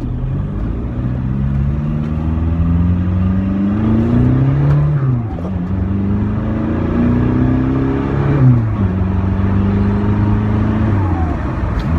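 Volkswagen 1.9 TDI ALH four-cylinder turbodiesel with a 2.5-inch straight-pipe exhaust accelerating hard up to about 60 mph. The revs climb, drop sharply at two gear changes about five and eight and a half seconds in, then climb again.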